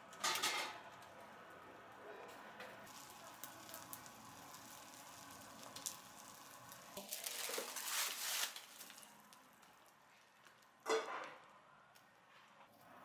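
Food sizzling faintly, with a few clatters of utensils or dishes being handled: one near the start, a longer run about halfway through, and a sharp one near the end.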